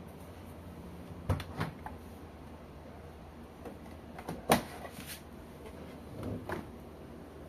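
A few sharp knocks and clicks over a steady low hum, the loudest about halfway through.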